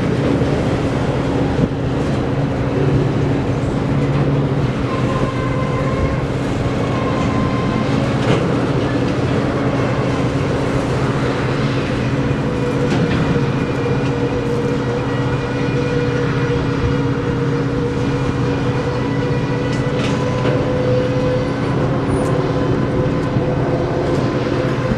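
Freight train of oil tank cars rolling past: a steady, continuous rumble of steel wheels on the rails, with faint steady whining tones over it.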